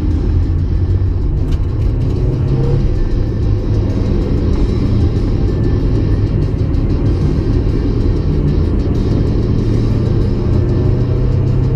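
1994 Mazda MX-5 Miata's 1.8-litre twin-cam four-cylinder engine running steadily while driving, with small rises and falls in pitch.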